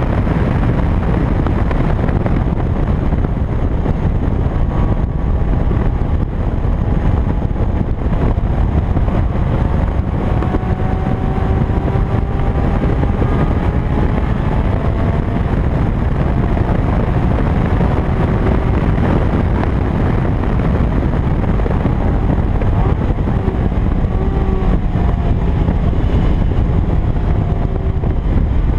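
Toyota MR2 Spyder's 1ZZ-FE 1.8-litre inline-four running hard at track speed, its engine note climbing slowly in long pulls, buried under a heavy rush of wind on the microphone.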